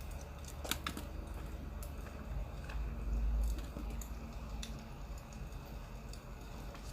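Crackling firewood from a playing fire-sound recording: scattered, irregular sharp pops over a low steady rumble.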